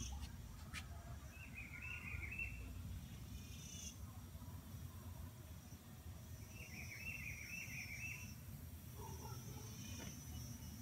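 Birds calling from the trees: a short chattering phrase, twice, about five seconds apart, over a thin high note that comes and goes and a low steady rumble.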